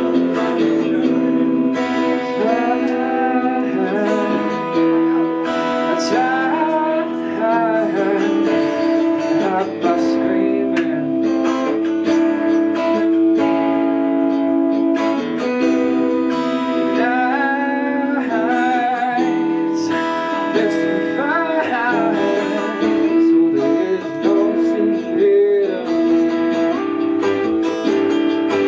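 Live rock band playing a slow number, guitars to the fore, with wavering lead lines over steady sustained chords.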